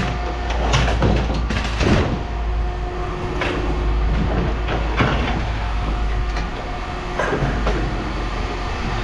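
A steady low engine rumble with a constant hum, over which scrap metal clanks and scrapes several times as it is handled.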